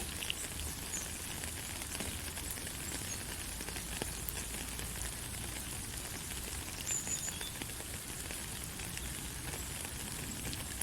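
Steady light rain: an even hiss with scattered drop ticks, no thunder.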